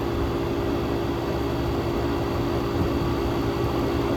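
Air conditioner with a 1967 Tecumseh AJR compressor running: a steady compressor hum over the rush of air from its fans.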